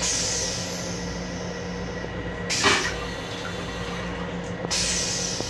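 Steady running hum of an M7 electric railcar heard inside its small restroom. Over it come short hissing bursts: the loudest about two and a half seconds in, another near the end.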